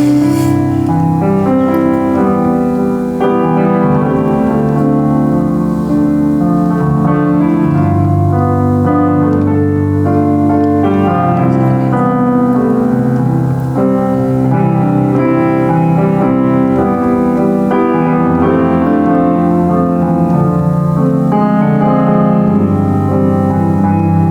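Piano playing a worship piece in full, sustained chords over a moving bass line.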